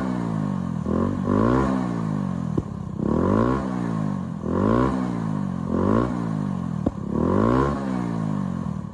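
Honda Ruckus scooter's small single-cylinder engine being revved over and over, its pitch climbing and falling back about every second and a half, with two sharp clicks partway through.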